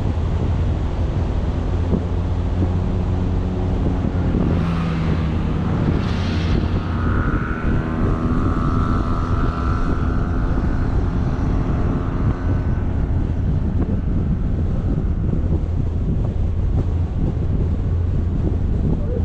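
Wind buffeting the microphone of a camera on a moving vehicle, a heavy low rumble throughout. About five seconds in a louder rush swells, and an engine's steady hum comes through over the wind until about thirteen seconds in.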